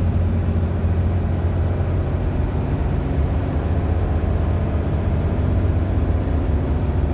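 Steady low drone of a bus engine and road noise, heard from inside the moving bus.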